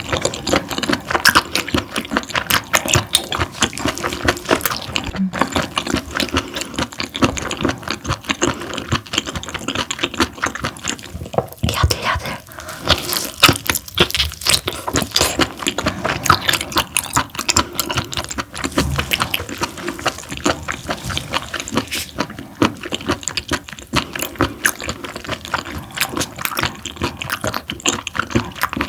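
Close-miked chewing of parboiled webfoot octopus: a dense, unbroken run of wet mouth clicks and smacks.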